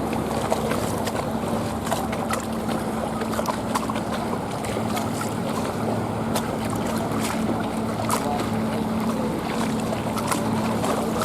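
Motorboat engine running steadily at low speed as a boat passes, over water lapping and splashing at the waterside.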